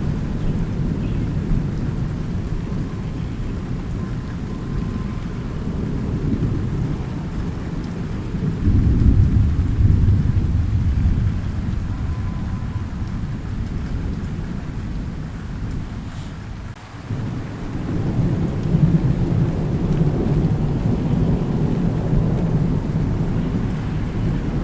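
Thunderstorm: continuous low rumbling thunder over steady rain. The rumble swells louder twice, about nine seconds in and again about nineteen seconds in. It dips briefly in between.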